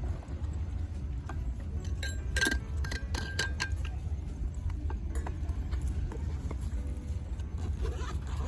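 Metal camping cookware or stove parts clinking together as they are handled, a quick cluster of ringing clinks a couple of seconds in and lighter clicks after, over a steady low rumble.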